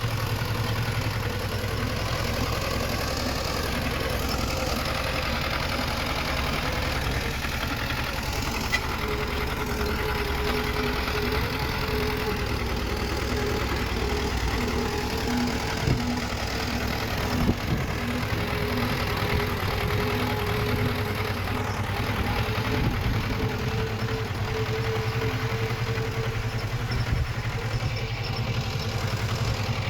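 Diesel engine of a small crawler bulldozer running steadily. A whining tone rises over the engine from about nine seconds in until near the end, with a couple of short knocks midway.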